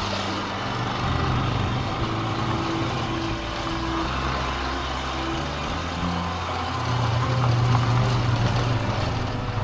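Small motorcycle engine running under way, its pitch stepping up and down with throttle changes and rising and getting louder about seven seconds in.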